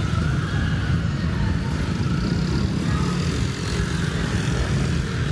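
Street ambience on a busy road: a steady low rumble of passing motor traffic.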